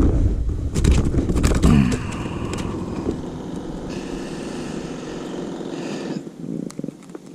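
Wind buffeting the microphone with a low rumble for the first two seconds, broken by a few sharp clicks and knocks. After that it drops to a quieter steady hiss, which fades about six seconds in.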